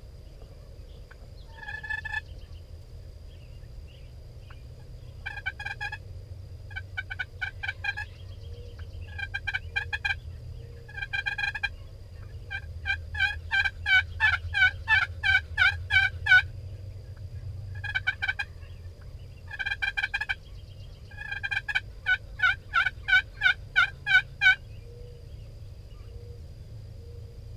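Wild turkeys calling in runs of short, evenly spaced notes, about three to four a second. The longest and loudest runs come in the middle and again later. A faint steady high tone and a low rumble lie underneath.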